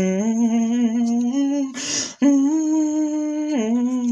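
A person humming a tune in long held notes that step up and down in pitch, with a short breathy rush of noise about two seconds in.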